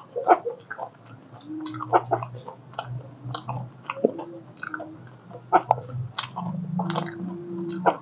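Close-miked chewing of a mouthful of chatpate (spiced puffed-rice snack): many short wet mouth clicks and smacks. A low steady hum sounds twice, about one and a half seconds in and again near six and a half seconds.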